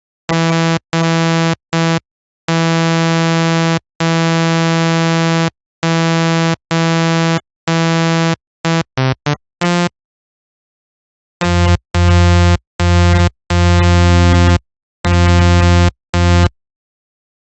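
Image-Line Harmor software synthesizer playing a patch as a series of separate held notes with dead silence between them, short and long, with a few quick stabs near the ten-second mark. After a pause of about a second and a half, a second run of notes with a heavier bass follows.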